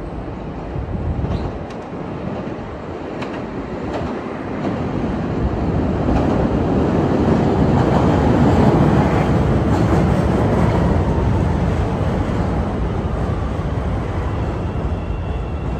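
CTA 'L' train pulling into an elevated station and running in alongside the platform. The rumble of steel wheels on the rails grows to its loudest about halfway through and then eases. Sharp clacks come early on, and a faint high whine appears near the end.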